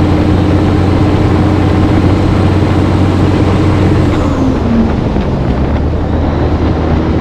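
Heavy diesel truck engine running steadily under way. About four seconds in, its note falls as the revs drop, then picks back up near the end.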